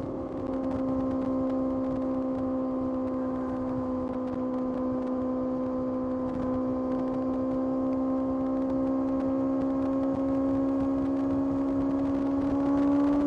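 Kawasaki ZX-6R's 636 cc inline-four engine running at a steady, fairly high rpm while cruising, its pitch rising slightly near the end as the throttle opens.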